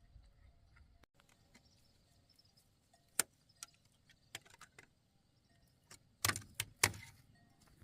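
A series of sharp knocks and clicks, irregularly spaced, with the loudest few knocks bunched together about six seconds in.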